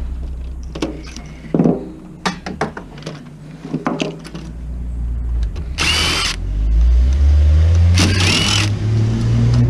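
A car with a loud, rough engine, which sounds like a demolition derby, drives past and revs hard. It grows loud and rises in pitch from about the middle, with two harsh bursts. Before it come light clicks and knocks of parts being handled.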